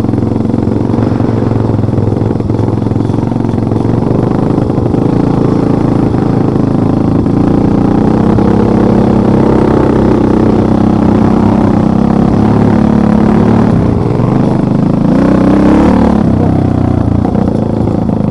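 Motorcycle engine running under load with its pitch rising and falling as it revs, climbing sharply about fifteen seconds in before settling.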